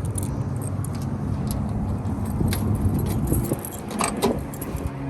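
Keys jangling and clicking over the steady low hum of a car engine running.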